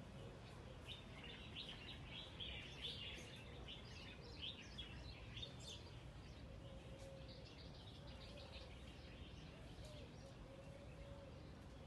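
Small birds chirping and twittering, faint, with a dense run of quick chirps in the first half that thins out later.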